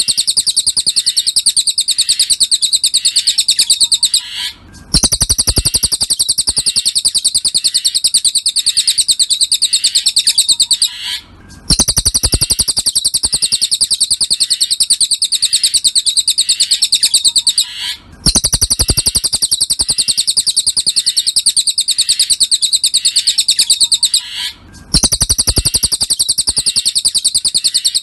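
A cililin songbird singing a very fast, high-pitched chattering trill of rapidly repeated chirps. The song comes in long phrases of about six seconds, each followed by a brief pause of half a second or so.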